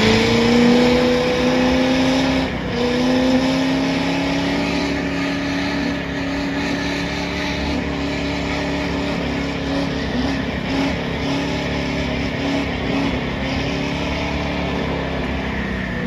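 Truck engine revved up and held at high rpm for a long burnout, with a steady hiss of spinning tires over the engine note. It falls off near the end as the throttle is let go.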